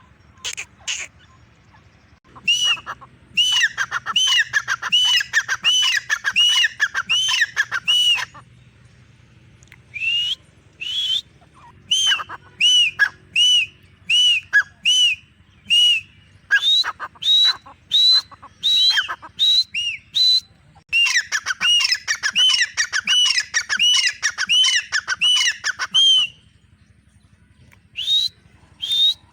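Grey francolin (teetar) calling: a series of shrill notes that rise and fall, about two a second, in repeated bouts with short pauses between them.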